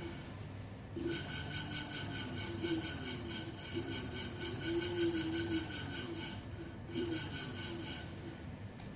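Electric scooter brake disc rubbing against the pads as the wheel spins, a rhythmic scraping that pulses evenly, starting about a second in and breaking off briefly near the end. The rub comes from the disc sitting too close to a pad.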